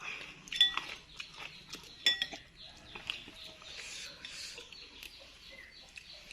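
A metal spoon clinks against a bowl of bakso twice, ringing briefly each time, with close-up chewing and slurping noises between and after.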